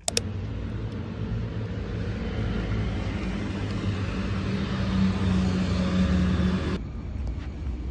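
Street noise led by a nearby motor vehicle's engine running with a steady low hum, which drops away suddenly near the end.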